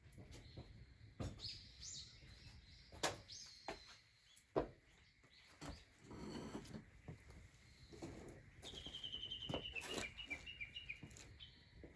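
Birds chirping and singing faintly, with a quick run of falling notes near the end, over a low background hum. A few sharp clicks or knocks are scattered through it, the loudest about three and four and a half seconds in.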